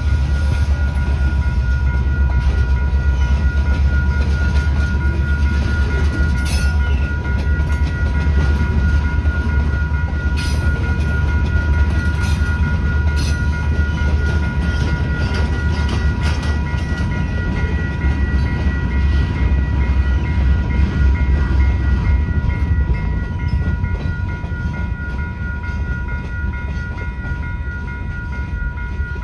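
Freight train rolling through a grade crossing: a heavy low rumble with wheels clacking over the rail joints now and then, and the crossing bell ringing steadily over it. The rumble eases off near the end as the last cars clear the crossing.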